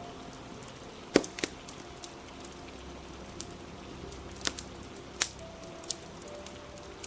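Wood fire crackling with sharp pops, the loudest about a second in and others around four and a half and five seconds, over a steady hiss of rain.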